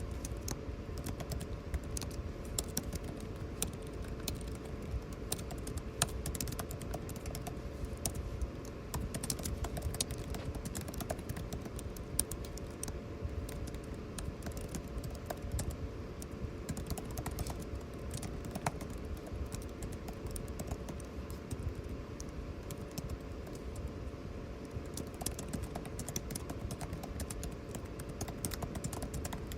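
Typing on a computer keyboard: a continuous stream of irregular key clicks over the steady hum of air conditioning.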